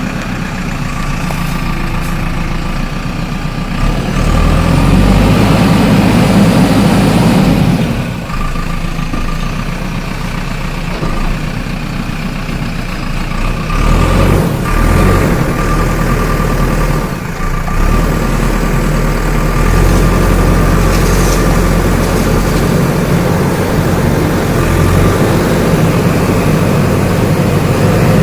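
JCB backhoe loader's diesel engine running continuously, getting louder under load for several seconds at a time, first about four seconds in and again through the last third.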